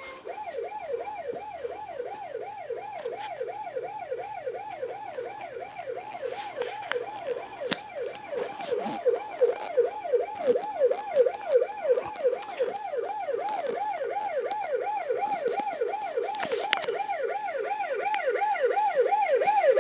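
Toy police siren from a Kid Trax ride-on police car's sound module, playing a fast yelp that sweeps up and down about two and a half times a second, with a few faint clicks.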